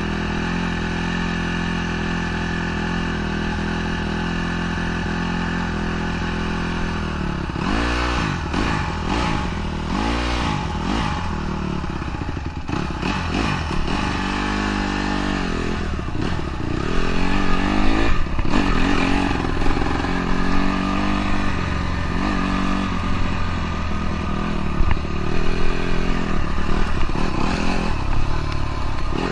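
Dirt bike engine idling steadily, then blipped twice, the pitch rising and falling quickly about eight and ten seconds in. It then pulls away and runs with its note rising and falling through the throttle, louder from about seventeen seconds on.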